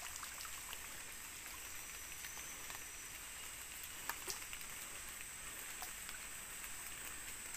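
Light rain falling: a steady hiss with scattered sharp drop ticks, a couple of louder ticks about four seconds in.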